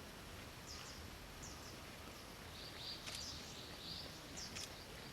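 Short, high bird chirps repeating irregularly over steady outdoor background noise, with a couple of faint sharp clicks about three seconds in.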